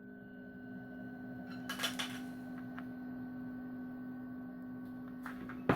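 Plastic cassette case being handled and opened: a few light clicks and rustles about two seconds in and a cluster of clicks near the end. A steady electrical hum runs underneath.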